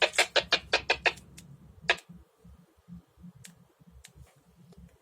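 Rapid, even clicking of a handheld two-way radio's controls, about seven clicks a second, stopping about a second in, then a few single clicks.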